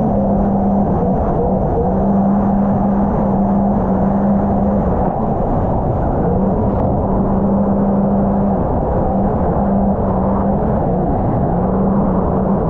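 Sea-Doo RXP-X 300 personal watercraft with its supercharged three-cylinder engine running under way, a steady engine drone over a heavy rush of wind and water. The engine note breaks off and returns several times, dipping and climbing back about eleven seconds in.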